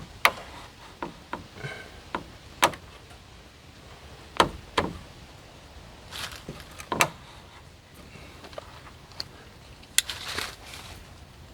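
Irregular knocks and clunks of wooden and metal parts of a solar panel tilt mount being moved and set down while its angle is lowered, about half a dozen sharp ones with lighter taps between.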